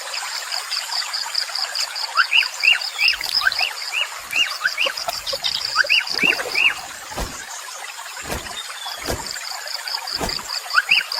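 Wetland ambience of small birds calling: runs of a rapid high trill and many short rising chirps. Several low, drip-like plops of water come near the end.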